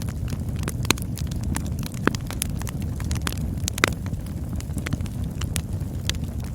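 Campfire burning: a steady low rumble of the flames with irregular crackles and pops, a few sharper snaps standing out, one about a second in and another near the four-second mark.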